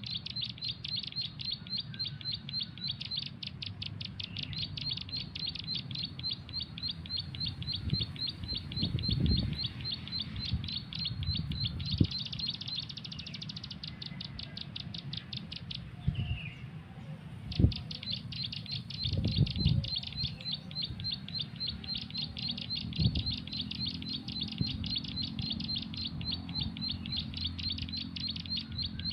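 Rapid, evenly repeated bird chirps, several a second, a bird call played from a mobile phone's MP3 as a lure for wild birds. The chirping stops for about three seconds just past the middle and then resumes, with a few low thumps of handling.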